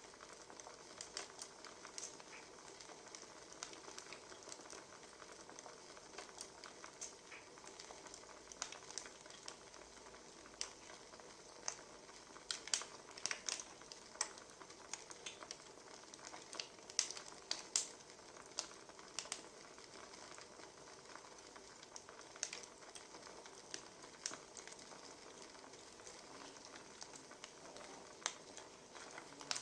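Wood fire crackling: a steady soft hiss with irregular sharp pops and snaps, which come thicker and louder in the middle.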